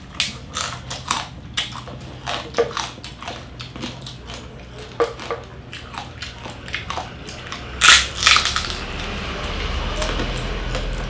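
Close-up crunching and chewing of crispy roasted pig skin (lechon), a run of irregular crackly crunches with the loudest about eight seconds in.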